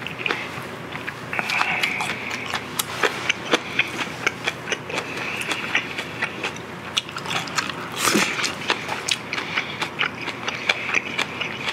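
Close-miked mouth sounds of a person eating grilled pork ribs: chewing with many quick, irregular wet clicks and lip smacks. There is a short, louder noise about eight seconds in.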